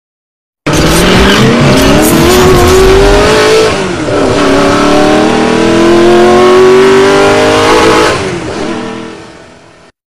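Sound effect of a sports car engine revving hard through the gears: two long rising revs with a dip about four seconds in, then fading away near the end.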